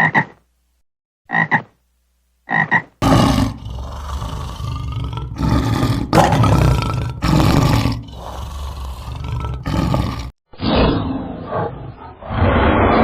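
Farm animal calls. First come a couple of short croaking calls. Then, after an abrupt change, a run of loud, rough calls each about a second long. Near the end a different, steadier animal sound takes over.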